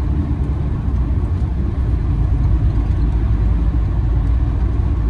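Camper van driving along, a steady low rumble of engine and road noise heard from inside the cab.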